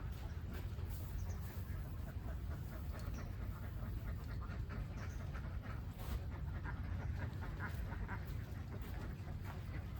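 A flock of domestic ducks quacking and chattering in many short, overlapping calls, over a steady low rumble.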